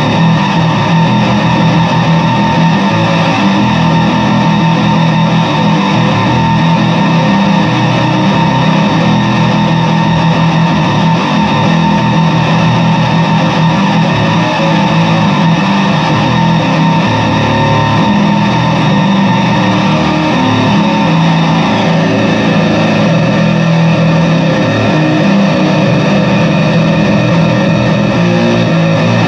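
Fender Squier Bass VI six-string bass played through a fuzz pedal: sustained, heavily distorted notes and riffs without a break.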